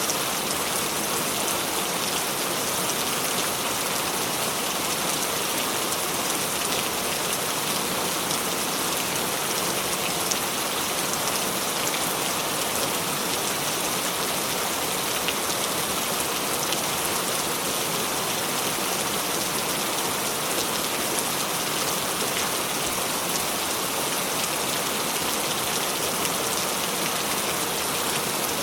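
Steady rain falling, an even hiss of drops hitting a surface with fine individual drop ticks.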